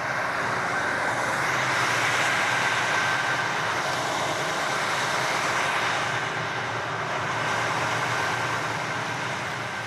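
Engine of a 350-horsepower river tugboat running steadily under load, a low even drone with a broad rushing noise over it.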